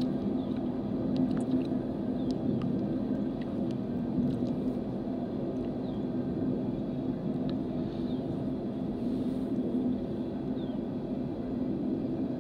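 BNSF coal train rolling past as a steady low rumble, with a few faint, short, high falling chirps over it.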